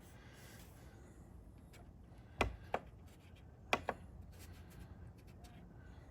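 Chainsaw carburetor parts being set down into an ultrasonic cleaner: faint light clicks, two pairs about a second apart.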